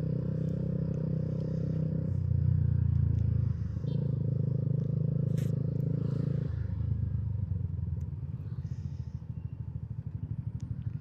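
Motorcycle engine running on the move, changing pitch a few times, then from about six and a half seconds in dropping to a slower, pulsing low beat as the bike slows.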